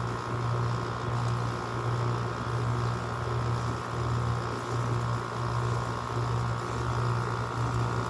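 GE window air conditioner running on low cool, its compressor and fan making a steady low hum. The unit is being run after a long time unused.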